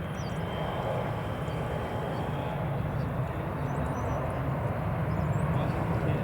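Jet airliner's engines giving a steady rumbling roar that slowly grows louder as the plane approaches.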